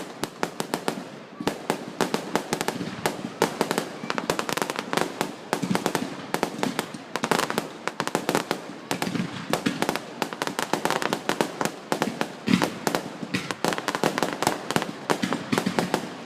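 Fireworks display: a dense, unbroken barrage of sharp bangs and crackles, many strikes a second.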